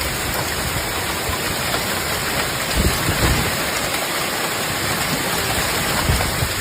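Heavy rain pouring down in a steady hiss, with a couple of brief low rumbles, about three seconds in and again near the end.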